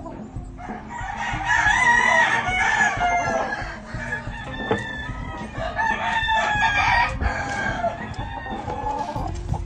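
Gamefowl roosters crowing, several birds overlapping, with two long loud crowing spells, one about a second in and one past the middle.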